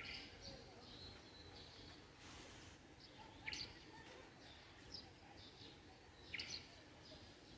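Faint birds chirping: scattered short high calls over a quiet background, two of them a little louder about three and a half and six and a half seconds in.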